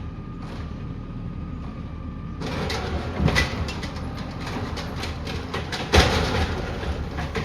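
Peterbilt 320 automated side-loader garbage truck at work: the engine running with a faint steady whine, then about two and a half seconds in a rush of clattering and knocking as a cart is tipped and its contents fall into the hopper, with a loud bang about six seconds in.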